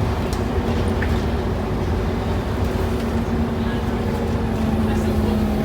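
Scania N230UD OmniCity double-decker bus heard from inside while under way: the diesel engine drones steadily over a low road rumble, with a few short rattles from the bodywork.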